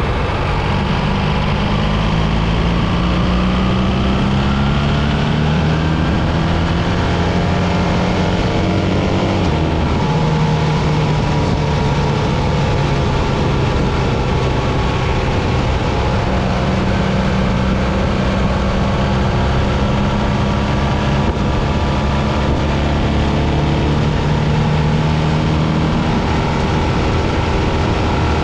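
BMW R 1300 GS boxer-twin engine under way over rushing wind noise. The engine note climbs for about nine seconds, drops sharply as the bike shifts up a gear, then holds fairly steady.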